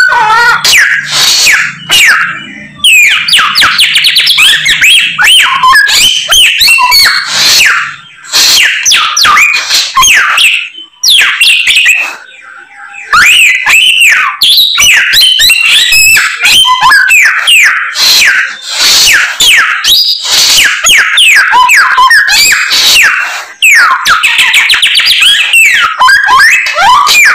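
Samyong songbird singing loudly without pause. Its song is a rapid, varied stream of chirps, whistles and quick rising and falling trills, full of imitations of other birds' calls, broken by a few brief pauses.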